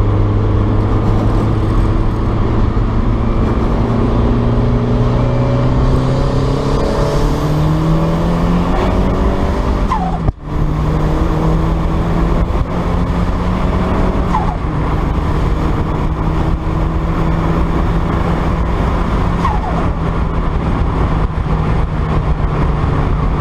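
Turbocharged 1.6 four-cylinder engine of a 1990 Mazda MX-5 pulling under load, its pitch rising steadily for about ten seconds. The sound briefly drops out, and the engine then holds a higher, steady note.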